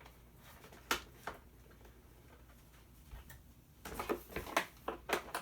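Sharp clicks and light knocks of a screwdriver working at small screws in a plastic toy body, a couple of clicks about a second in, then a quick run of clicks near the end.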